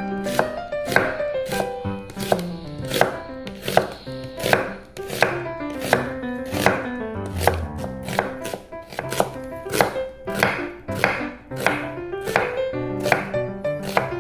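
A kitchen knife chopping on a cutting board in a steady rhythm, about two strokes a second, with background music underneath.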